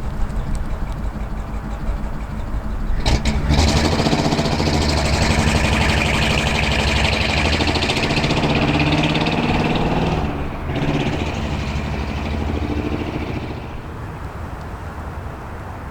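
The 1940 Ford Deluxe's 8BA flathead V-8, fitted with tubular headers and full-length dual exhaust, running. A couple of sharp clicks come about three seconds in. The engine then grows much louder until about ten seconds, dips briefly, rises again and settles lower near the end.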